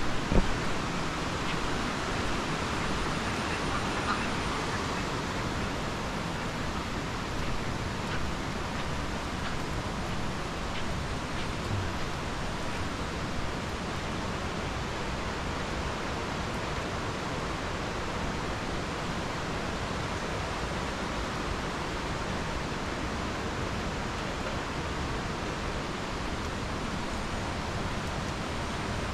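A steady, even rush of falling water with no pauses or changes.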